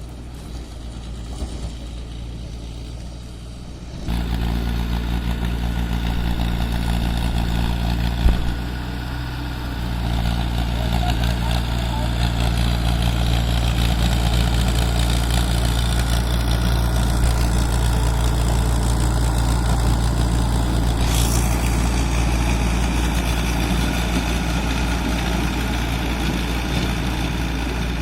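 Mahindra Arjun tractor's diesel engine running steadily while working a rotavator. It gets clearly louder about four seconds in, with a single sharp thump a few seconds later.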